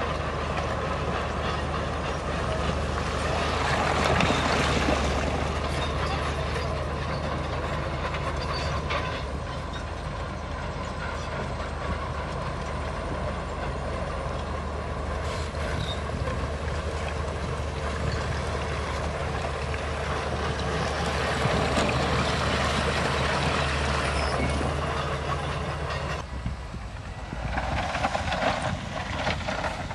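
Bulldozer's diesel engine running steadily under load, with the clank and squeal of its steel tracks. The engine note drops a few seconds before the end, and a burst of rattling knocks follows.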